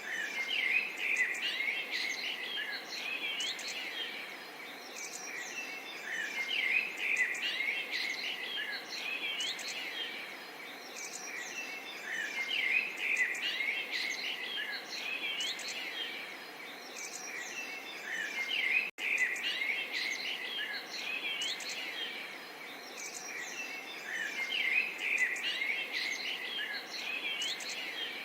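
Small songbirds chirping and singing in bursts that come back about every six seconds, over a faint steady wash of babbling water. The sound cuts out for an instant about two-thirds of the way through.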